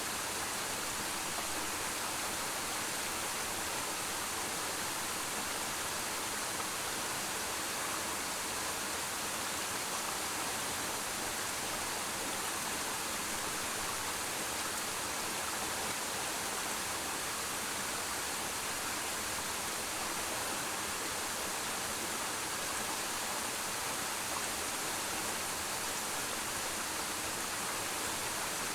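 Waterfall falling into its pool: a steady, unbroken rush of water, strongest in the higher range.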